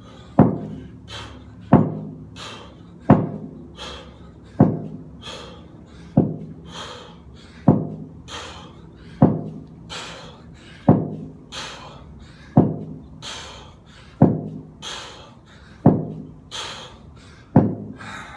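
A weight thudding down on the floor at the bottom of each deadlift rep, twelve times at about one every second and a half, with hard breathing between the reps.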